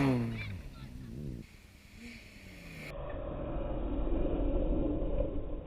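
Rally car engines at high revs. In the first second a car passes close by and its engine note falls as it goes past. After a cut, another car is heard approaching, its engine growing louder.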